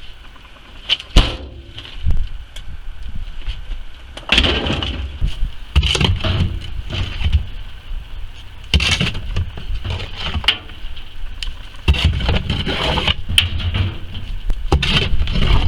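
A heavy metal freezer being tipped onto its side and the soil left inside knocked and scraped out: a sharp knock about a second in, then irregular thuds and scraping.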